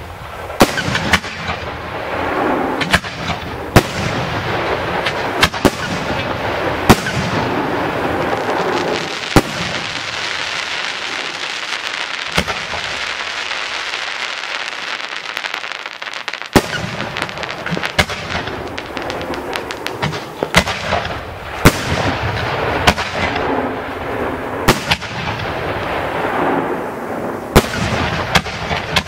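Aerial firework shells, Italian cylinder shells, bursting in the sky: loud sharp bangs one after another, about fourteen in all. A continuous dense wash of noise fills the gaps between them, with a stretch of several seconds in the middle where no bangs come.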